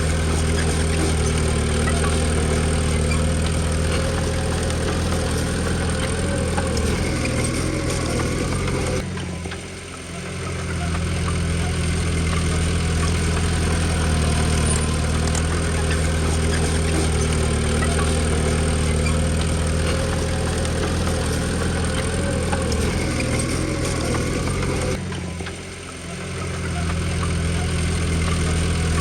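Komatsu D20P bulldozer's diesel engine running steadily, the sound dipping briefly twice, about a third of the way in and near the end.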